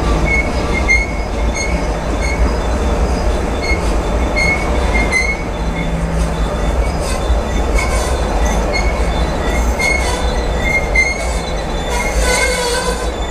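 Freight train of tank cars and covered hoppers rolling past: a steady low rumble of wheels on rail, with short high-pitched wheel squeals recurring about every half second and a stronger squeal near the end.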